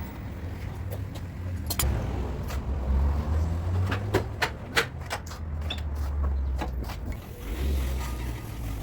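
Irregular sharp hammer taps on a car's sheet-metal front fender, most of them between about two and seven seconds in, over a low steady hum.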